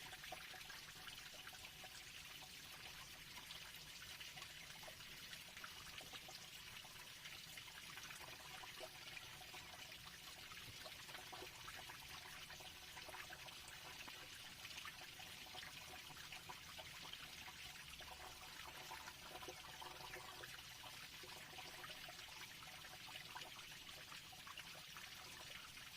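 Near silence: a faint steady hiss with scattered faint crackles.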